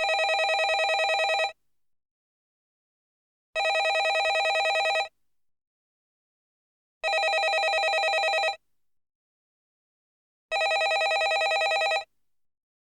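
Landline telephone ringing: four rings, each about a second and a half long with a rapid trill, one every three and a half seconds with silence between.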